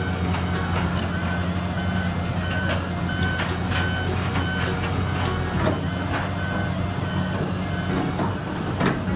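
Heavy diesel construction machinery running steadily while a backup alarm beeps at a regular pace, about one beep every 0.7 s, through the first half. Sharp knocks and clatters follow in the second half, and the loudest comes near the end.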